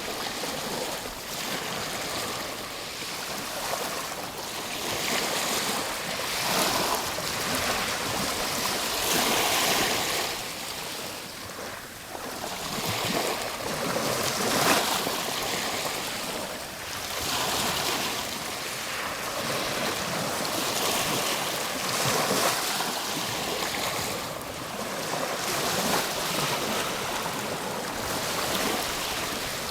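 Ocean waves breaking and washing up on shore, a steady rush that swells and eases every few seconds.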